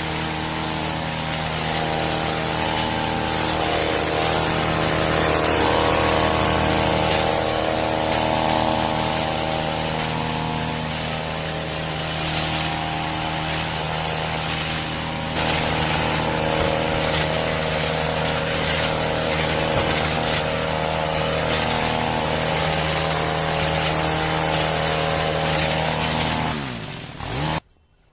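Powered hedge trimmer running steadily while cutting back a bush. Its pitch shifts slightly now and then, and the motor stops abruptly near the end.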